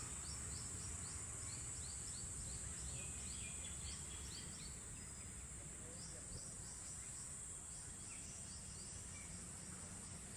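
Outdoor park ambience: a steady, high-pitched insect drone with many short, rapid bird chirps over it, thickest in the first half and again later, above a low background rumble.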